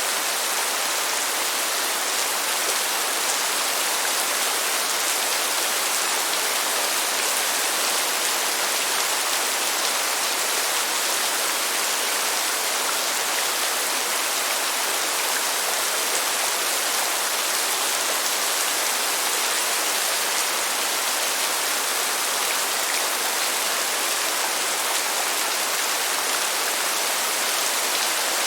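Steady, even hiss of rain falling, with no distinct drops or thunder standing out.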